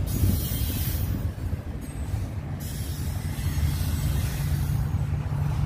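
Diesel freight train running past, a low rumble, with a steady low drone coming in about halfway through.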